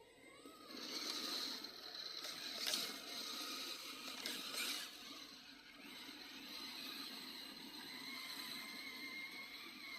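Radio-controlled scale truck's electric motor and geared drivetrain running with a steady high whine, with a few sharp clicks and knocks from the chassis on the terrain, about three and five seconds in.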